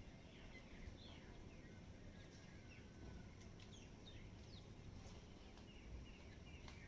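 Faint outdoor ambience of small birds chirping: many short, quick chirps and downward-sweeping notes, with a steady high insect-like hum and a low background rumble.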